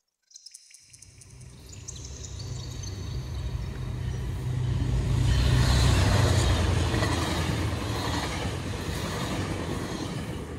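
Diesel-hauled double-deck commuter train passing close by on the tracks: a low rumble with wheel and rail noise that swells over the first few seconds, is loudest about halfway through, then eases a little. A few sharp clicks come as it starts.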